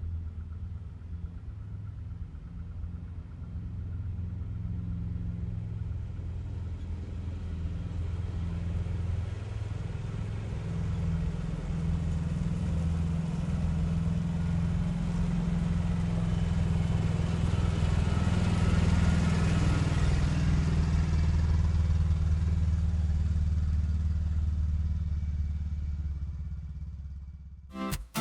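ATV engine running steadily, slowly getting louder toward the middle and fading near the end.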